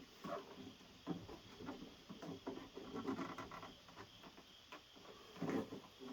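Hands and a tool working a rubber window gasket into a pickup truck's door channel: irregular scraping and rubbing with light knocks, and a louder knock about five and a half seconds in.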